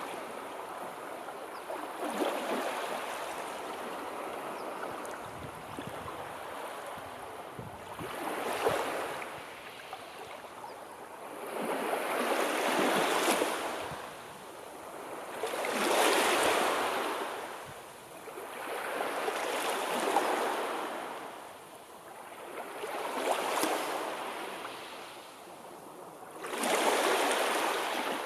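Sea waves washing in and drawing back, the rushing swelling and fading in surges every three to four seconds, gentler over the first several seconds.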